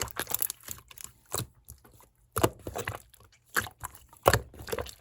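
Clear slime being squished and pressed by hand, giving irregular clusters of sticky pops and crackling clicks.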